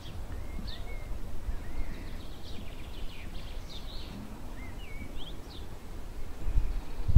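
Small songbirds chirping and singing, with short chirps and curving whistled notes throughout, over a steady low rumble.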